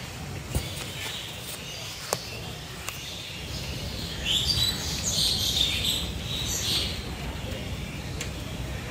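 Birds chirping, with high calls loudest from about four to seven seconds in, over a steady low background rumble. Two sharp clicks come at about half a second and two seconds in.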